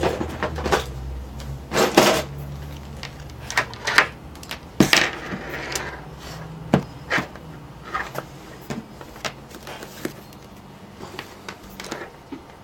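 Scattered clicks, taps and knocks of a power adapter's cord and plug and a voltmeter being handled on a desk, with a low hum fading over the first few seconds.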